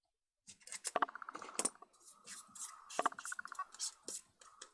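Metal lens barrel parts and glass elements clinking, clicking and scraping against each other as a zoom lens is taken apart by hand. The three sharpest clinks come about 1, 1.6 and 3 seconds in.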